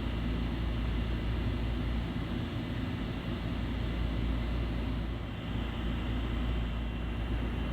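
Steady whirring hum of a fan or air blower, with a strong low drone and no distinct events.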